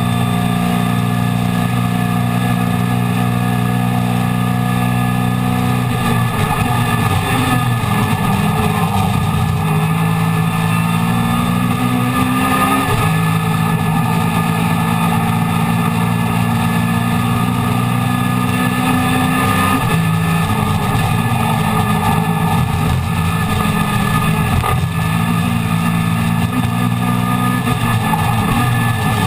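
Mini Miglia race car's four-cylinder A-series engine running hard under race conditions, heard from inside the cabin. The note holds steady for several seconds at a time and changes pitch a few times, rising and then dropping about 13 seconds in, over a constant rush of wind and road noise.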